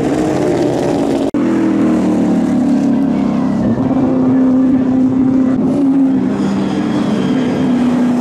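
Race car engines running at fairly steady revs, the engine note holding with small shifts in pitch; the sound drops out for an instant about a second in.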